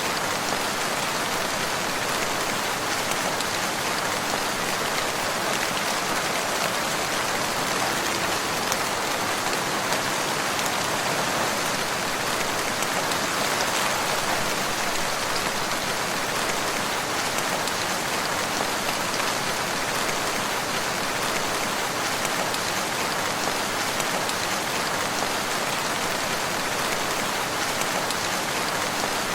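Steady rain falling on surfaces, an even hiss with fine drop patter throughout.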